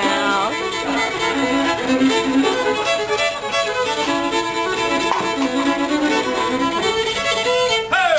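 Fiddle playing a melody of quick notes, with a sliding note near the end.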